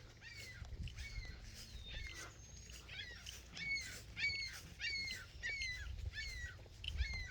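An animal's repeated chirping call, short notes sliding downward in pitch, about one and a half a second, with a low rumble underneath.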